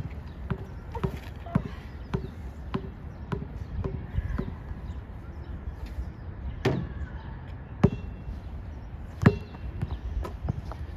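Basketball being dribbled on a hard court, a sharp bounce about every 0.6 s at first, then a few louder, more widely spaced bounces in the second half. Wind rumbles on the microphone throughout.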